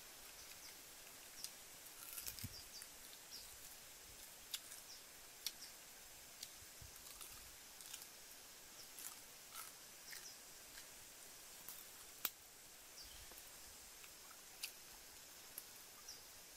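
Faint, scattered clicks and smacks of a person chewing and eating grilled pork with her fingers, over a quiet background, with one sharper click about twelve seconds in.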